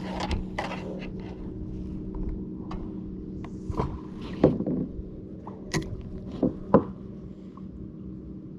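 A few sharp knocks and scrapes of gear being handled on a kayak, over a steady low hum.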